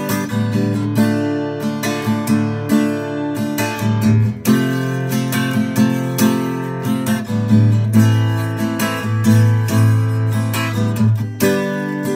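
Acoustic guitar strummed in a steady rhythm, with chords changing through an instrumental passage and no singing.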